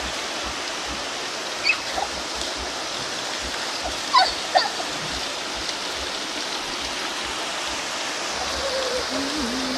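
Waterfall rushing steadily. A few short, high-pitched calls cut through it about two and four seconds in.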